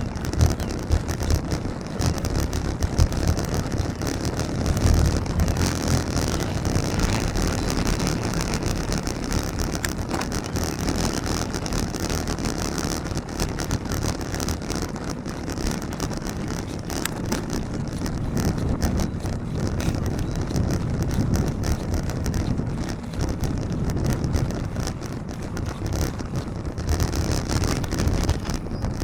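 Wind buffeting the microphone of a camera on a moving bicycle, a steady rushing with a heavy, uneven rumble, over the noise of road traffic.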